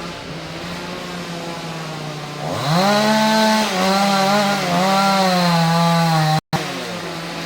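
Chainsaw idling, then revved up about two and a half seconds in and held at high speed, its pitch wavering under load as if cutting wood. It breaks off abruptly near the end and drops back to idle.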